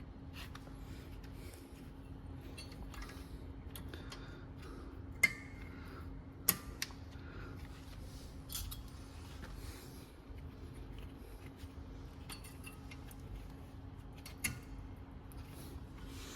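Scattered metallic clicks and clinks of hand tools and brake parts being handled, with two sharper metal knocks about five and six and a half seconds in, over a steady low hum.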